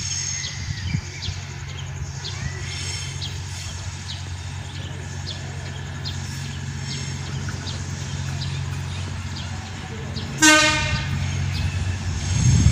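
Diesel multiple-unit train approaching with a steady low engine drone, sounding one short horn blast about ten seconds in. The rumble grows louder near the end as the train draws closer.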